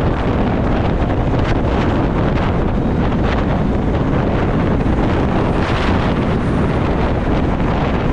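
Wind rushing steadily over the microphone of a moving Yamaha Virago motorcycle, with the V-twin engine and road noise running underneath.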